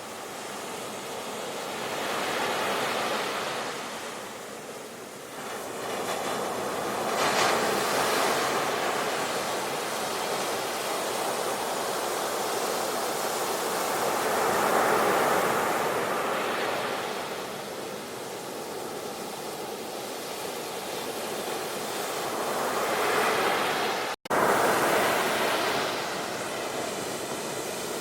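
Ocean surf: the steady rush of waves, swelling and easing every few seconds, with a split-second dropout a few seconds before the end where the recording cuts.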